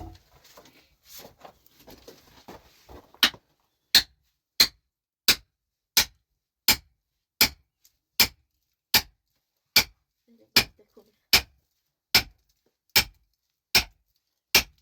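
A metal hand tool striking rock in a steady rhythm, about one sharp blow every three-quarters of a second, starting about three seconds in.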